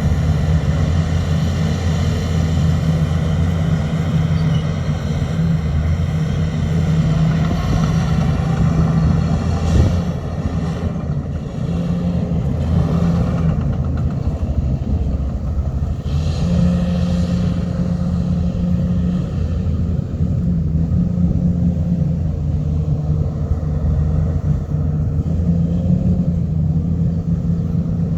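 Heavy diesel engine of earth-moving machinery running steadily, its note shifting a little now and then, with a single knock about ten seconds in.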